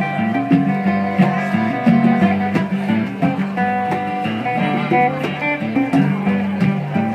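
Live acoustic band music: plucked strings, a mandolin among them, over a steady beat of hand percussion such as congas.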